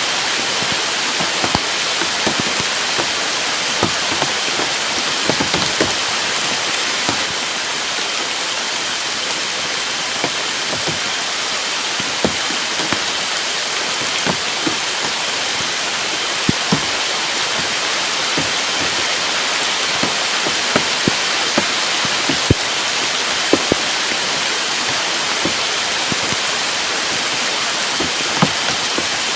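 Heavy rain falling steadily, with many irregular sharp taps of drops hitting close by. A faint steady high-pitched tone runs underneath.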